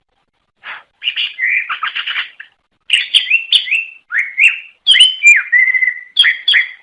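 Cucak ijo (green leafbird) singing a fast, varied song of quick chirps, slurred up-and-down whistles and a short trill, starting about half a second in and breaking off abruptly at the end.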